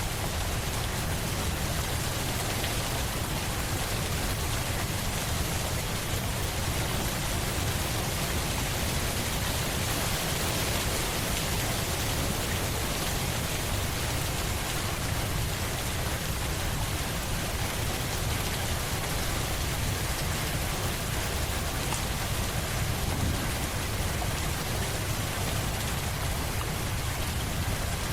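Steady rain, a constant even hiss with a low rumble underneath and no change in strength.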